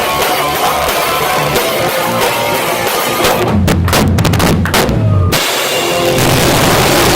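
A heavy rock band playing live, loud, in a poor-quality phone recording. About three seconds in the band breaks into a run of separate, heavy drum and bass hits with gaps between them, then the full band comes back in around five seconds.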